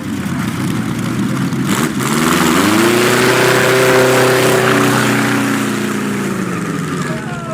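Napier Sea Lion W12 aero engine of the Napier-Bentley special running loud, revved up about two seconds in, held high, then let back down toward the end.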